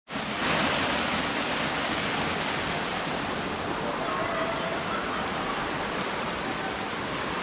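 Steady rushing of a mountain stream's water flowing over rocks.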